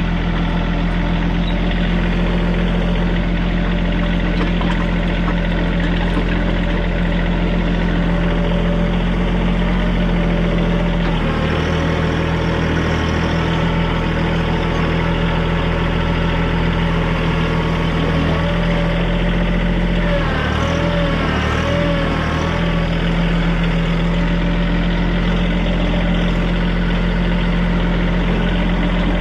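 Compact TYM diesel tractor engine running steadily under work. The engine note shifts partway through and wavers for a couple of seconds about two-thirds of the way in, then settles back to its steady note.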